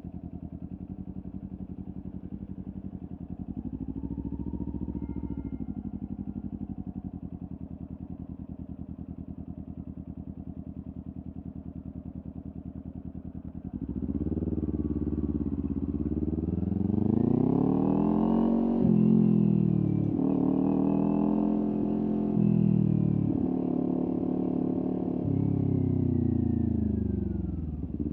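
A Kawasaki Ninja 400's parallel-twin engine, heard through a LeoVince aftermarket exhaust. It runs at a steady low note with a brief blip of revs, then about halfway through it pulls away louder. The pitch climbs and drops sharply several times through the gear changes.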